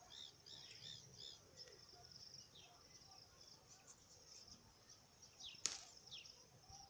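Near silence with faint outdoor ambience: faint high chirps, a quick run of them at the start and a few falling ones later, and one sharp click a little before the end.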